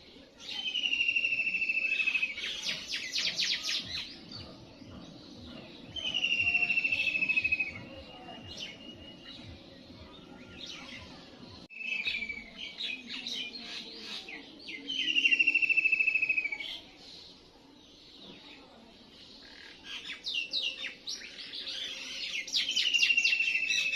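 A songbird singing in repeated phrases, about four of them, each a high falling trill followed by a quick run of sharp notes.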